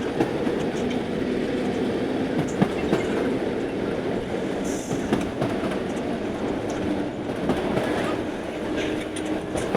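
Vande Bharat Express train running along the track: a steady rumble with a faint hum and scattered clicks of the wheels over the rails.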